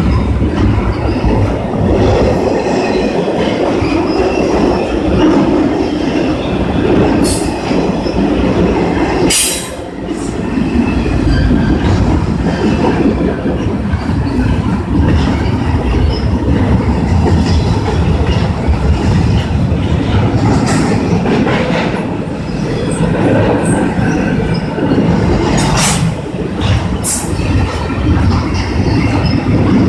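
CN freight train rolling past, a steady rumble of wheels on rail, with a few brief sharp sounds from the wheels, two a third of the way in and two more near the end.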